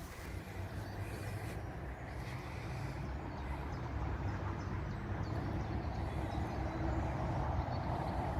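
Steady low outdoor rumble with an even background hiss, growing slightly louder toward the end.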